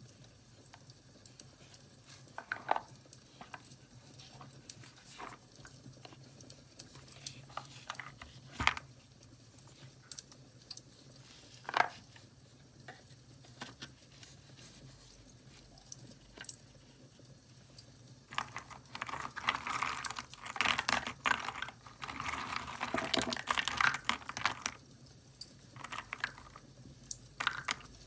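Close-up handling of journaling paper and supplies: scattered light taps and clicks, then about two-thirds of the way in several seconds of dense paper rustling and crinkling.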